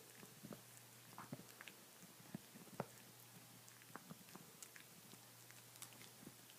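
A dog gnawing on a bone: faint, irregular clicks and crunches of teeth on bone, with one sharper crack a little under three seconds in.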